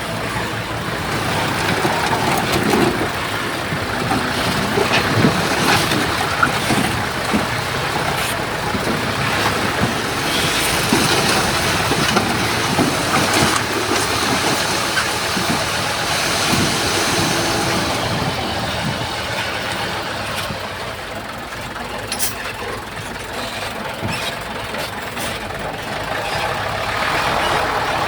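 Heavy earthmoving machinery at work: a large diesel engine running under load, with scattered metallic clanks and rattles.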